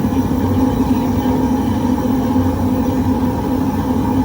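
Propane burner firing a custom-built casting furnace, running steadily with a loud even rush and a low hum while brass melts inside.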